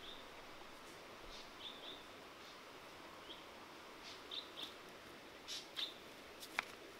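Short, high bird chirps now and then over a faint outdoor hiss, with footsteps through grass and undergrowth giving soft rustles and a sharp click near the end.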